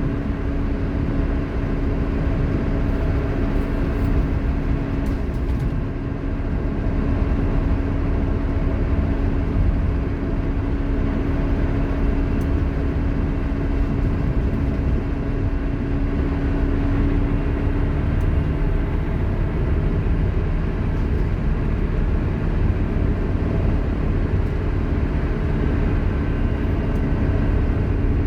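Scania K230UB Omnilink bus under way, its ZF Ecomat automatic gearbox giving a loud, steady whine over the engine and road rumble.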